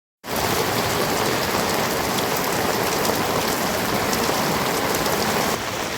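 Steady heavy rain, a dense even hiss that starts abruptly right at the beginning and drops slightly in level near the end.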